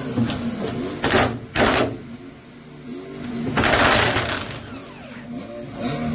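A power tool run in short bursts with a rapid mechanical rattle: two quick bursts about a second in, then a longer one near four seconds, as it works on the underside of the car body.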